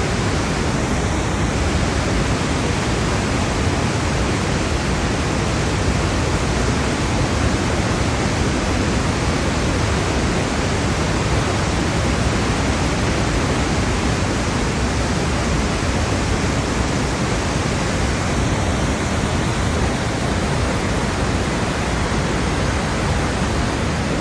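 Steady, unbroken rushing of a large waterfall, the Rhine Falls, a constant wash of falling water heard up close.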